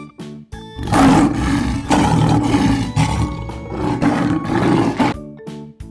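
A lion roar sound effect, a rough rumbling roar swelling about four times over some four seconds, starting about a second in. Cheerful children's background music plays under it.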